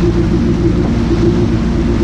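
Jet ski engine running steadily at speed, a steady low drone with a hiss of wind and water over it.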